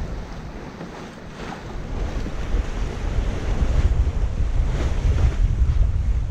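Wind buffeting the microphone over the rush of waves along a sailing yacht's hull. It grows louder about two seconds in, with a few short swishes of water.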